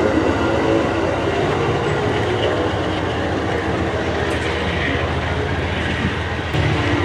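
Train running, a steady, loud rumble with a low drone.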